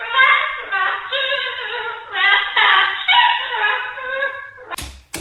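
Cockatoo singing, a run of held, wavering voice-like notes one after another, then a couple of sharp knocks near the end.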